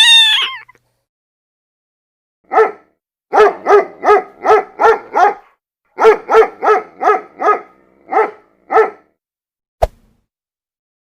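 A dog barking, about fourteen short barks in quick runs beginning about two and a half seconds in. It is preceded by a brief springy, pitched sound at the very start and followed by a single sharp click near the end.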